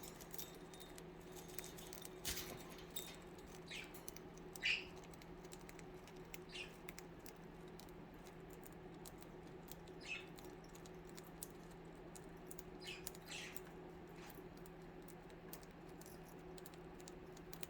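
Pet budgerigars moving about their cage: light pecking, tapping and scratching of beaks and feet, with a few short soft chirps scattered through. A steady low hum runs underneath.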